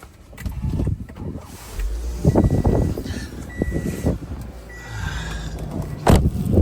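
A car being started and run: low engine rumble in surges, with a high electronic warning chime beeping on and off about once a second. A sharp loud thump comes about six seconds in.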